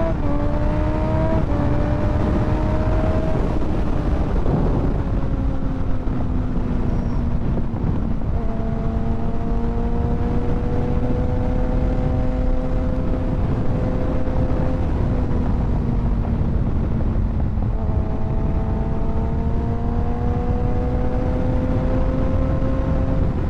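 Kawasaki 636 (ZX-6R) inline-four engine running steadily at cruising speed, its pitch holding nearly level with small dips and steps a few times. Heavy wind rush on the microphone underneath.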